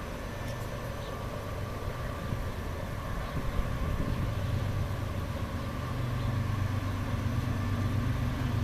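Diesel locomotive engines of a BNSF intermodal freight train running with a steady low drone that grows gradually louder as the train approaches.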